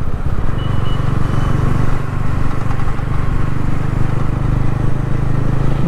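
TVS Ronin 225's single-cylinder engine running at a steady cruising speed, with wind rushing over the rider's microphone.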